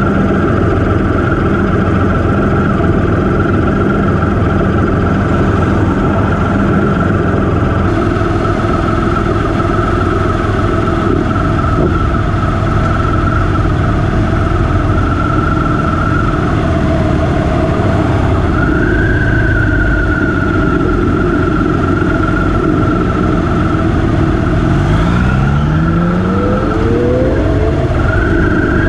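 Motorcycle engine running at a steady speed, then revving up in a series of rising sweeps near the end as it accelerates through the gears.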